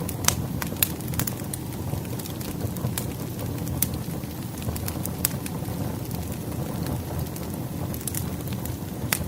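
Wood fire burning: a steady low rumble with scattered sharp crackles and pops of burning firewood, a few each second.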